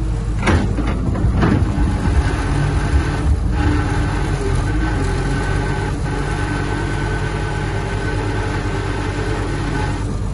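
Heavy earthmoving machinery's diesel engine running steadily, with a high steady whine over it. Two sharp clanks come about half a second and a second and a half in.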